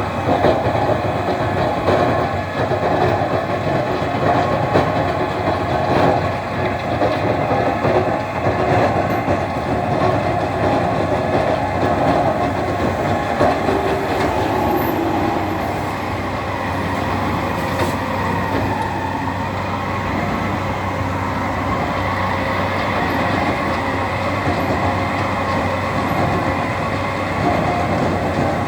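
Tractor shovel loader working: its engine runs steadily under a constant clattering rattle, with a few sharp knocks.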